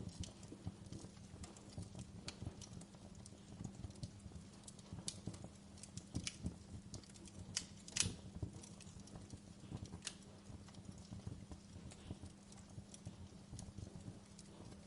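Wood fire crackling in a fireplace: irregular sharp pops and snaps, the loudest about eight seconds in, over a steady low hum.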